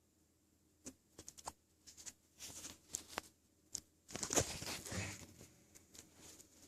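A puppy moving about: scattered light taps and clicks, with a longer scuffling rustle about four seconds in.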